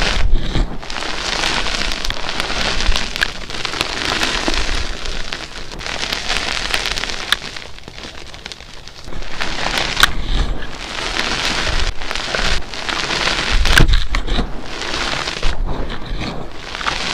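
Blocks of dyed gym chalk being crushed and crumbled: a dense crunchy crackle with scattered sharp snaps, easing off about eight seconds in, then picking up again.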